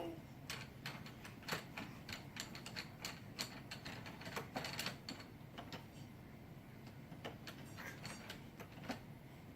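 Irregular light clicks and knocks, several a second, as a baby handles and bangs small objects on a table.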